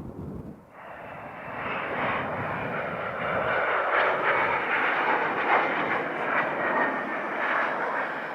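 Jet aircraft engines passing close by: a loud, steady rushing noise that starts abruptly about a second in and swells over the next two seconds.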